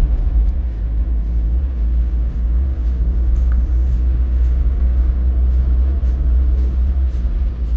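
Heavy tropical rainstorm: a steady deep rumble under an even hiss of rain, with faint scattered taps.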